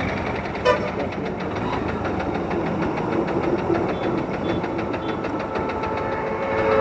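Motorcycle engine running steadily, with one sharp click a little under a second in.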